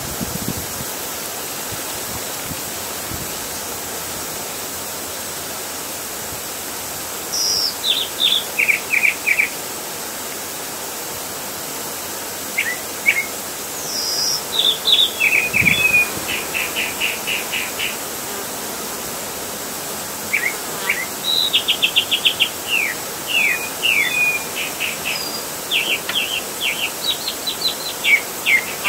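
A songbird singing repeated short songs, each opening with a high note, dropping through a few slurred notes and ending in a fast trill, over a steady outdoor hiss.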